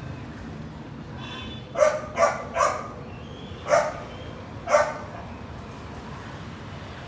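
A dog barking, five short sharp barks, three in quick succession and then two more spaced about a second apart, over a steady low background rumble.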